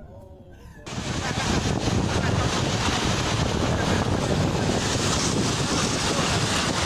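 A loud, steady rushing of strong wind buffeting the microphone, cutting in suddenly about a second in.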